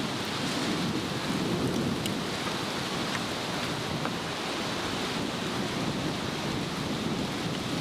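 Wind blowing over the microphone: a steady rushing hiss with a low, shifting rumble.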